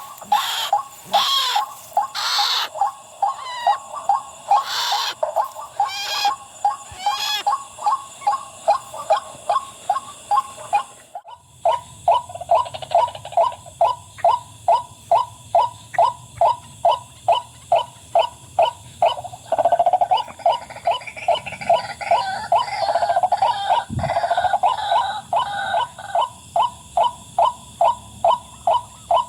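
White-breasted waterhen calling: a long series of evenly repeated 'wak' notes, about two a second, with a short break about eleven seconds in.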